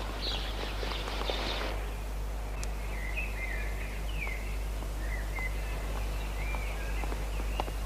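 Birds chirping in short twittering calls over a steady low hum. A hissing, clicking rustle cuts off about two seconds in.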